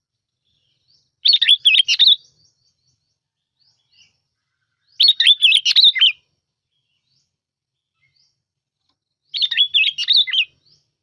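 Sooty-headed bulbul (bông lau) singing: three short, bubbly warbled phrases, each about a second long, coming about four seconds apart. This is the kind of song recording played as a lure call.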